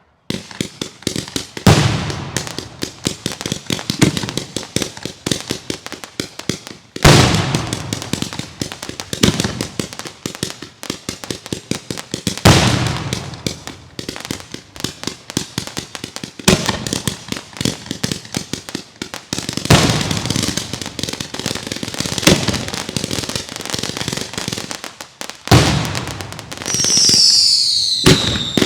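Consumer fireworks going off in a steady barrage of dense crackling, with a loud burst every few seconds. Near the end come falling whistles.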